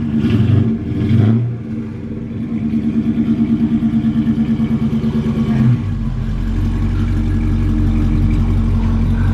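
Dodge Charger's engine running through its newly fitted four-exit exhaust with the baffles worked, with short revs in the first second or so, then running with a regular pulse before settling into a steady, deeper rumble about six seconds in.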